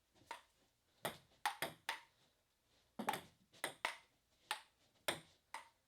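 Table tennis ball clicking sharply off the paddles and table in an uneven rally, about a dozen hits, some in quick pairs.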